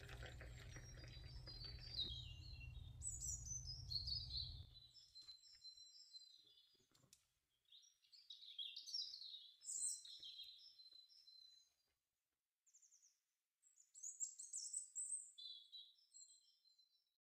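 Small birds singing: quick high twittering and warbling phrases, repeated with short gaps. A low steady hum sits under them for the first few seconds and cuts off suddenly.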